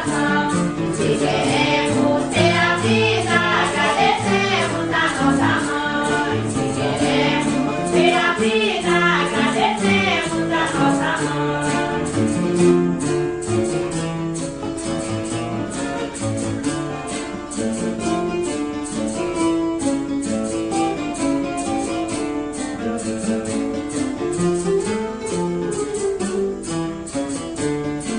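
Santo Daime hymn sung by a group with women's voices over acoustic guitar strumming. About eleven seconds in the singing stops and the guitar carries on alone with a steady strum.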